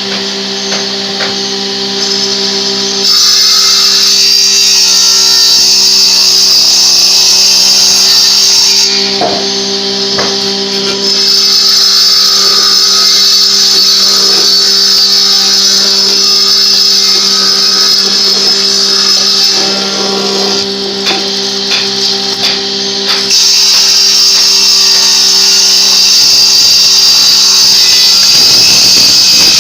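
A power tool running on wood in long stretches, stopping and starting again a few times, over a steady hum.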